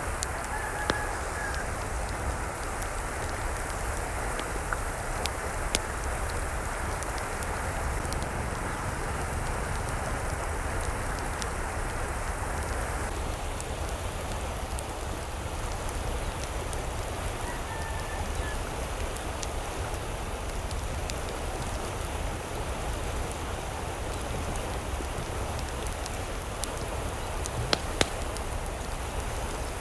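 Steady hiss of water, like rain, throughout, with a couple of faint short bird calls and a few sharp taps.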